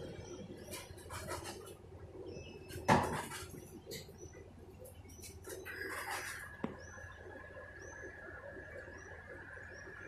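A bird's short, high chirps, repeated about once a second. A sharp knock comes about three seconds in, and a steady high tone starts a little after halfway.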